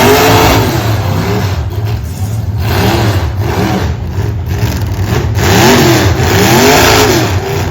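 Derby truck engines revving hard, pitch rising and falling over and over, with a run of quick revs near the end over a steady low rumble.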